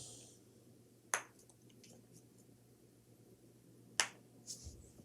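Two sharp clicks, about a second in and again about four seconds in, with a few fainter small clicks between them.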